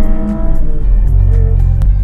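Audi RS5's 2.9-litre twin-turbo V6, with its exhaust resonators deleted, running steadily while driving, heard from inside the cabin.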